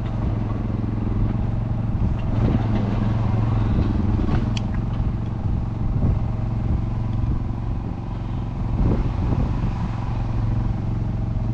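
Diesel engine of a Class 141 Pacer railcar running with a steady low drone, the train about to move off towards the signal. A single sharp click about four and a half seconds in.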